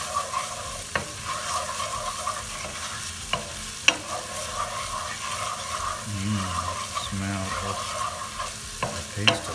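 Onion paste, garlic and ginger sizzling in steak drippings in a frying pan as a wooden spatula stirs and scrapes through them, clacking sharply against the pan a few times.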